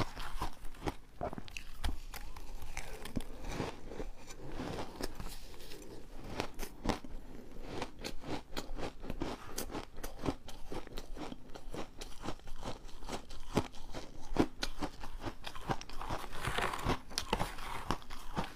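A person biting and chewing refrozen ice, a dense, unbroken run of sharp crunches and crackles.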